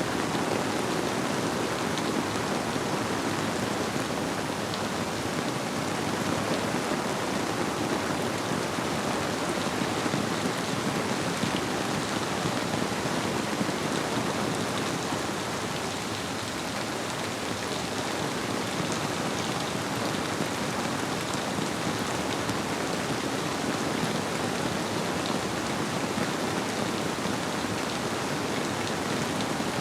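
Steady rainfall with a flowing river beneath it, an even, unbroken wash of water noise.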